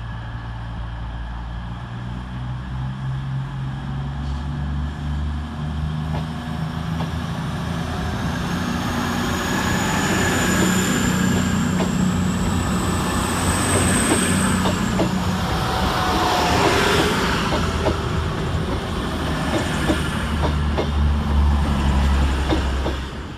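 Class 221 Super Voyager diesel-electric multiple unit pulling out, its underfloor diesel engines stepping up in note and growing louder as it gains speed. A thin high wheel squeal rises in pitch through the middle, and wheels click over rail joints near the end.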